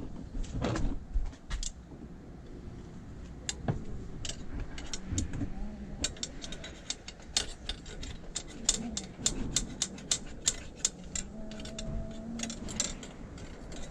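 Rapid sharp clicks and clinks of hands and tools working on parts in a car's engine bay, coming thickly in the second half, with a few short low voice-like sounds among them, one held for about a second.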